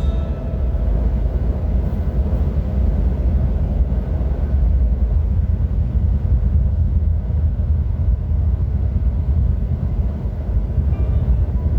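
Strong sandstorm wind buffeting the microphone: a loud, gusty low rumble that rises and falls without a break.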